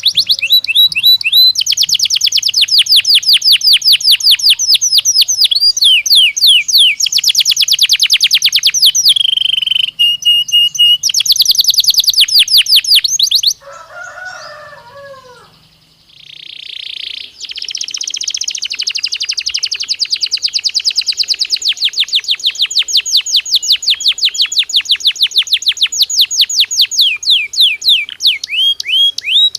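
Belgian canary singing in long, fast trills of rapidly repeated notes. The song breaks off for about three seconds around halfway, with a brief lower warble in the gap, then resumes in one long rolling trill.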